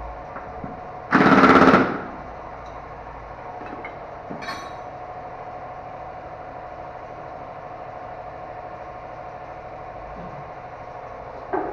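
A pneumatic impact wrench rattles in one short burst of under a second, about a second in, over a steady idling engine hum.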